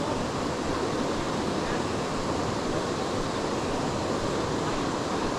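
Steady rushing of creek water pouring over a small waterfall, an even hiss with no change in level.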